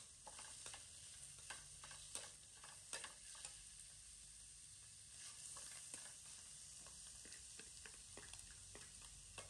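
Faint sizzle of food frying in a stainless steel wok on a portable gas stove, with a metal ladle stirring and clicking against the pan many times.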